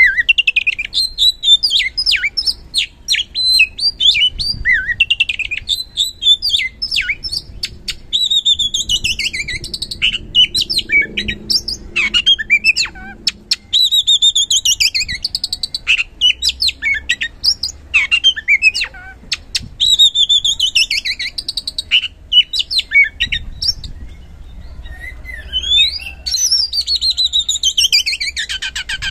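Oriental magpie-robin (kacer) singing loudly in a continuous, varied stream of clear whistles, falling slurs and rapid chattering notes, with a brief lull about four-fifths of the way through.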